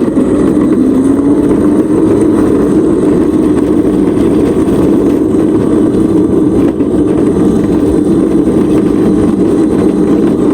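Electric crazy cart drift kart being ridden: a steady motor hum with a slight rise in pitch about a second in, over a constant rush of riding noise.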